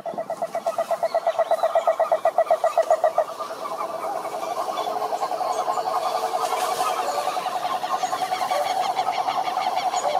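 Frogs calling in a chorus: a fast train of pulsed croaks, several a second, for about the first three seconds, then many overlapping pulsed calls merging into a steady din.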